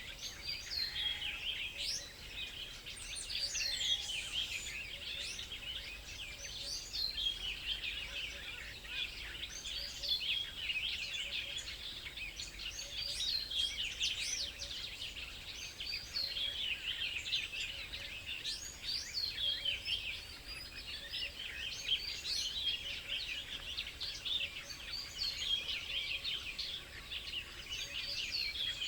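Many small birds chirping and twittering at once, a dense run of quick overlapping calls that keeps going without a break.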